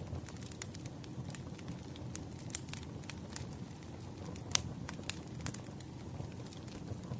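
Wood fire burning, with irregular crackles and pops over a low steady rumble of flames; one louder pop about four and a half seconds in.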